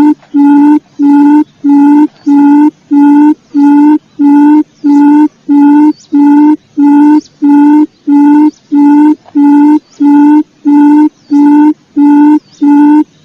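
Recorded quail call played as a bird lure: one short, low hooting note repeated evenly, nearly twice a second, loud throughout.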